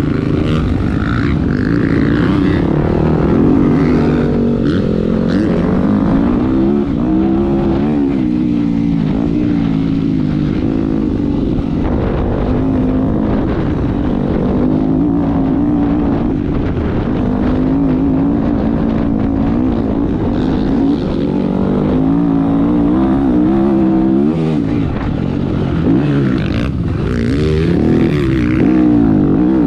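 Motocross dirt bike engine heard on board, revving hard, its pitch climbing and dropping over and over as the rider accelerates, shifts and backs off.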